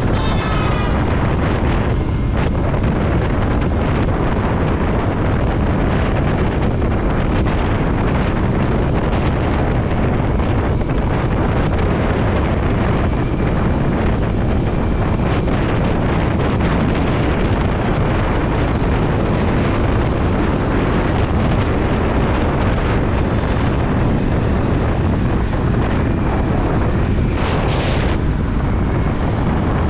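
Wind rushing over the microphone of a moving motorcycle, with engine and road noise underneath, loud and steady.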